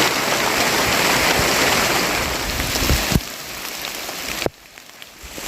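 Heavy rain falling steadily, with a single thump about three seconds in. The rain sound drops away abruptly about a second before the end, then comes back.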